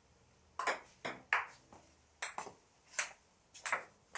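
Table tennis rally: the ball clicking off the bats and bouncing on the table, about nine sharp hits, mostly in quick pairs of bat and bounce, roughly every half second to a second.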